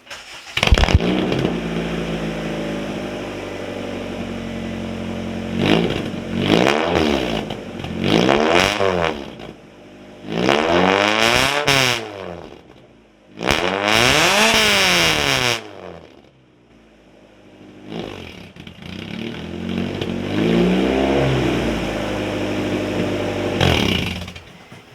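Honda Civic engine breathing through a home-made straight-pipe exhaust that is only tack-welded so far: it starts about half a second in, then idles and is revved several times, with a long high rev in the middle, and it cuts out near the end.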